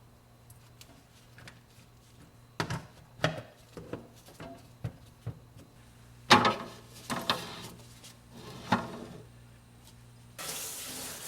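Kitchen handling noises: a run of knocks and clatters, the loudest about six seconds in, then a tap running in a steady stream near the end.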